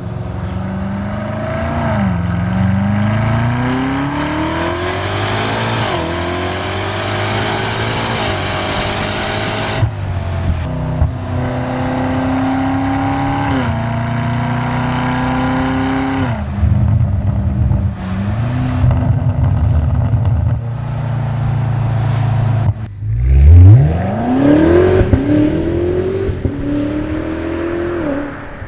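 BMW M5 Touring's twin-turbo V8 through a non-resonated DCE catback exhaust with the OPFs removed, accelerating hard through several gears: the pitch climbs and drops at each upshift. Near the end a sharp rev climbs steeply to the loudest point.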